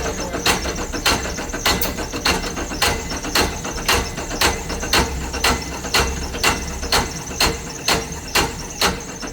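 An engine being cranked slowly by a VFD-driven electric motor for a compression test, with a sharp knock about twice a second over a steady high whine. The compression load makes the motor regenerate into the drive, and the Delta VFD110B43A trips on overvoltage.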